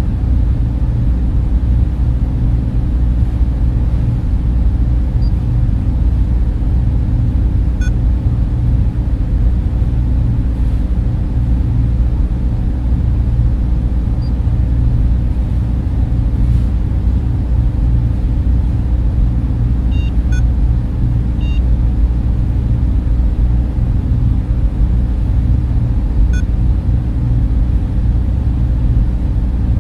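Server room machines and their cooling fans giving a steady, deep, low-pitched hum with no change in level.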